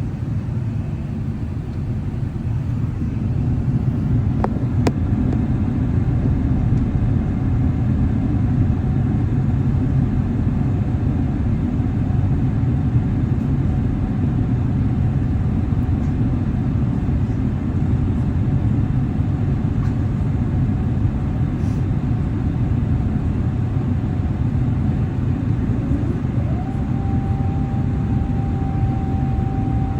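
Steady low rumble of airliner cabin noise: an Airbus A350-1000's Rolls-Royce Trent XWB engines and the airflow heard from a seat by the wing. A faint steady tone rides above the rumble and glides slightly higher about 26 seconds in; two light clicks come about four and a half seconds in.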